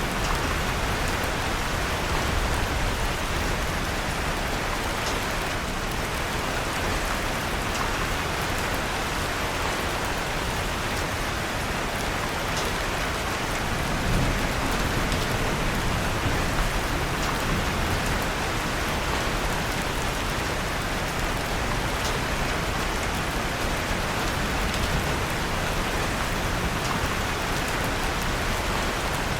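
Steady rain falling, mixed with the faint, scattered crackle of a wood fire in a fireplace.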